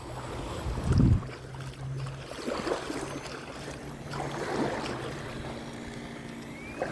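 Seaside ambience: waves washing on the shore and wind on the phone's microphone, gusting about a second in, under a steady low hum.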